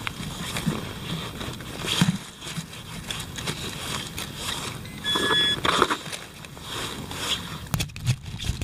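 Digging and handling noises in soil, with a few sharp knocks, and a short electronic beep from a metal detector about five seconds in.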